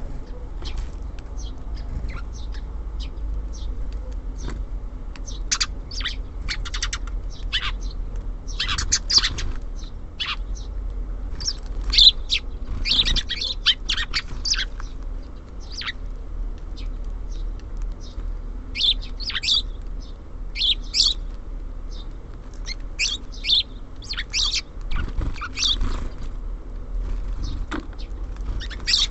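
Small songbirds at a feeder chirping and calling in short, high notes that come in irregular clusters, over a steady low rumble.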